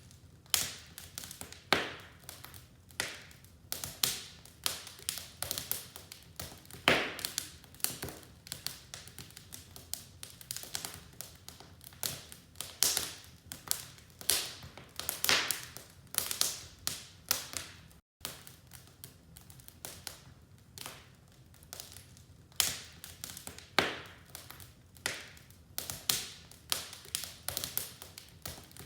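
Wood fire in a fireplace crackling: irregular sharp pops and snaps of varying strength, at times several a second, over a faint steady background. The sound drops out for a split second about two-thirds of the way through.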